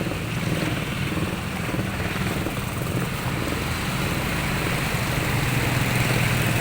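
A small engine running steadily, growing slightly louder toward the end.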